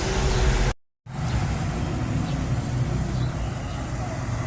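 Steady low background rumble, broken by a brief complete silence about three-quarters of a second in.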